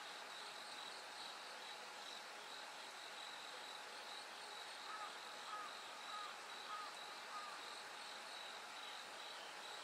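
Bell crickets (suzumushi) chirping in a steady high pulsing ring over a soft hiss. About halfway through, five short calls come one after another, a little more than half a second apart.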